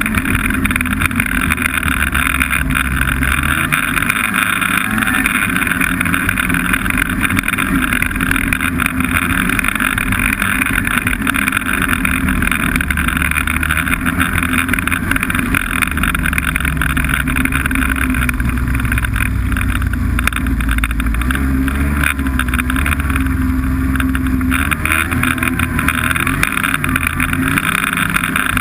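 Snowmobile engine running loudly while riding, its pitch shifting up and down in the second half as the throttle changes.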